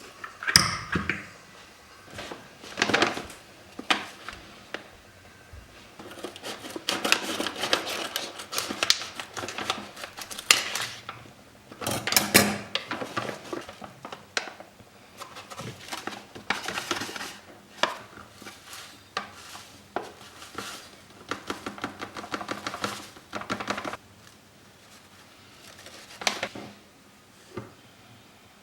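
Quick small clicks and knocks of objects being handled, coming in runs of a few seconds with short pauses between.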